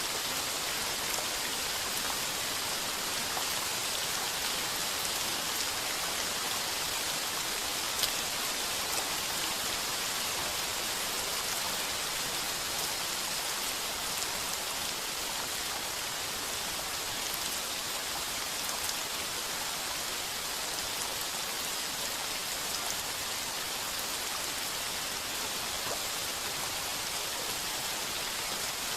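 Heavy rain on a tin roof: a steady, even hiss with scattered individual drop ticks.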